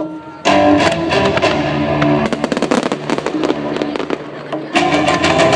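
Fireworks display: many sharp cracks and pops from shells bursting, coming thick from about two seconds in, over the music that accompanies the show.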